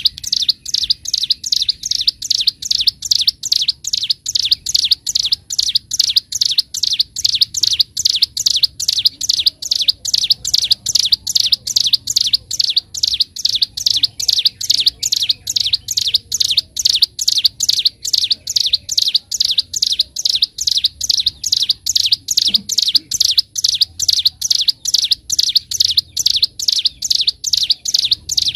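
Ciblek gunung, a prinia, singing a long unbroken run of sharp, high, chattering notes, about three a second, with no pauses.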